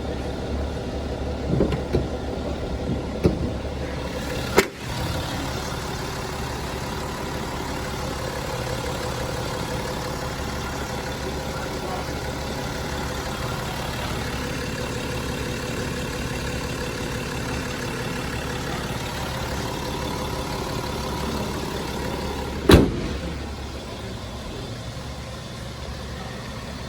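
BMW X5 xDrive35d's 3.0-litre turbocharged inline-six diesel idling steadily, with a few knocks in the first seconds and one sharp thump near the end, after which it is a little quieter.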